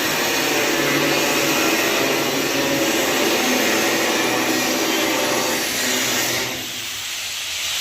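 A motor-driven machine running steadily with a dense hiss, dying away about six and a half seconds in.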